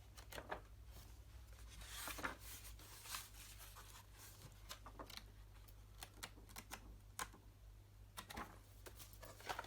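Faint rustling and light taps of paper: magazines and books being handled and their pages turned, in irregular short strokes.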